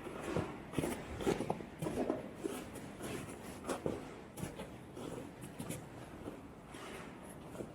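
Footsteps crunching in fresh, deep snow, a person walking at a steady pace with a crunch about every half second.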